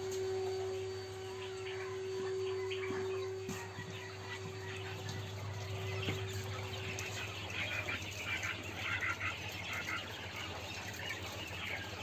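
Birds chirping repeatedly from about five seconds in, over a steady low hum and a steady mid-pitched tone that stops about seven seconds in.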